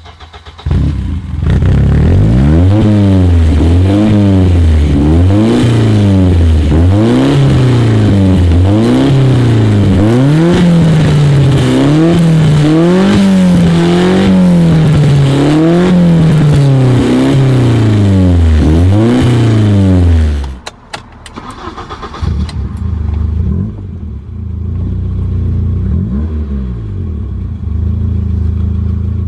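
BMW E30 M3's four-cylinder engine being revved again and again, its pitch rising and falling about a dozen times. About twenty seconds in it drops to a steady idle, with a few light blips near the end.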